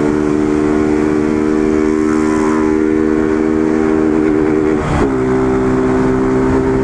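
Honda CG Fan 150's single-cylinder four-stroke engine running through an open exhaust with no muffler, holding a steady note while riding. About five seconds in the note wavers and drops slightly, as with a gear change.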